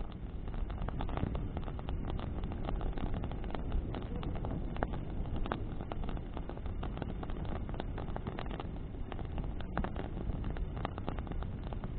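Bonfire burning in the wind: a steady low rumble of wind on the fire and microphone, with many sharp crackles and pops of burning branches.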